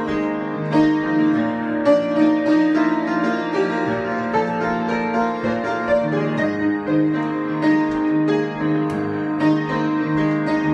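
Solo keyboard improvisation: sustained low chords with melody notes struck over them.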